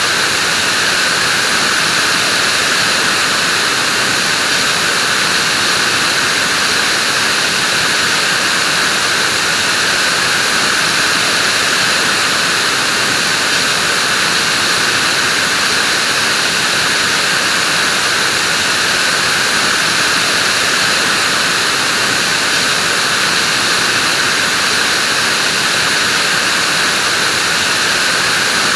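Vacuum cleaner running continuously: a steady, unchanging rushing hiss, stronger in the high range than the low.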